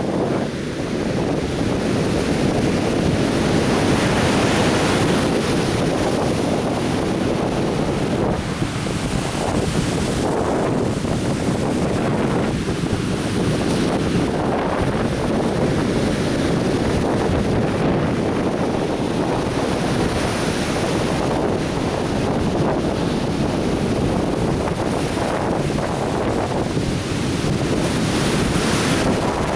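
Atlantic Ocean surf washing continuously onto a beach, swelling and easing as waves break, with wind buffeting the microphone.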